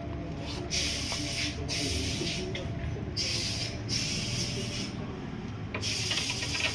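About five short bursts of hissing, each under a second long, separated by brief gaps, over a low steady rumble.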